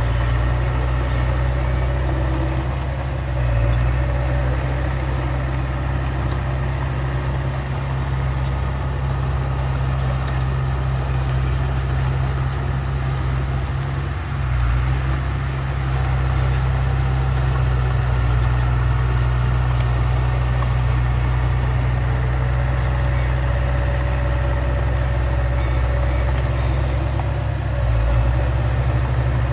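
Heavy earthmoving machine's diesel engine running steadily, its low note shifting briefly three times as the load changes.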